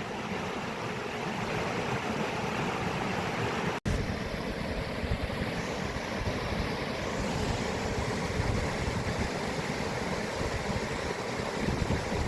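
Steady rush of water, an even noise with rumble at the low end. About four seconds in it cuts out for an instant and then resumes.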